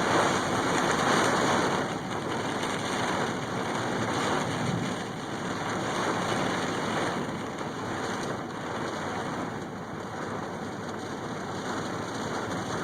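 Thunderstorm rain and gusting wind: a steady rushing noise that swells and eases every few seconds.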